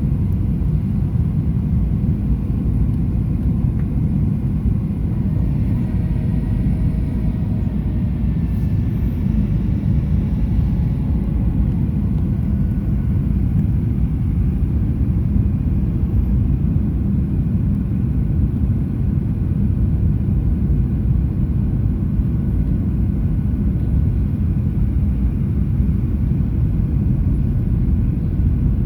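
Steady low rumble of airflow and engine noise inside the cabin of a Boeing 737-800 in flight, with its CFM56-7B turbofans running evenly.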